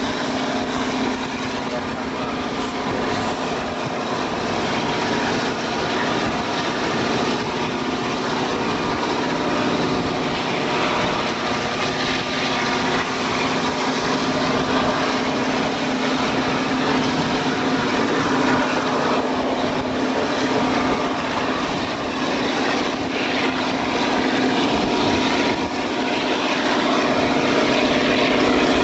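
Passenger train running at speed, heard from an open carriage window: a steady rush of wind and running noise over the rails, with the constant drone of a diesel locomotive's engine.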